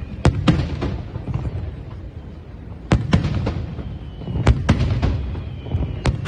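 Fireworks display: aerial shells bursting in quick clusters of two or three sharp bangs, a cluster about every one and a half seconds, with a low rumbling echo between them. A faint whistle falls slowly in pitch through the second half.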